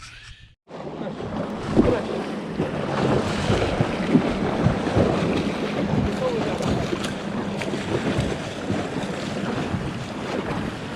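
Wind buffeting the microphone over sea water splashing and churning, with a steady low hum underneath. It starts abruptly about half a second in, after a brief dropout.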